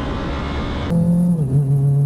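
Rider-camera road noise of a vehicle under way, which cuts off abruptly about a second in. A different vehicle engine then runs at a steady pitch that dips slightly soon after.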